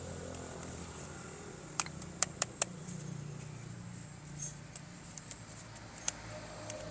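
Small hard clicks from handling plastic toy parts: a quick run of four sharp clicks about two seconds in, a few softer ticks, and one more click near the end, over a faint low hum.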